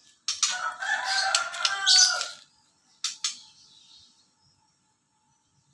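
A rooster crowing once, about two seconds long and dropping in pitch at the end, followed about three seconds in by a short high chirp from a small songbird.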